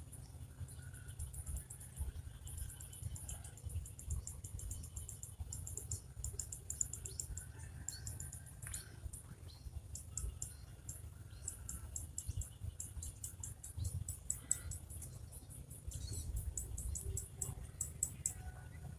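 Outdoor chirping of birds and insects: many rapid, high-pitched ticks and chirps with a few short, thin calls, over a steady low rumble.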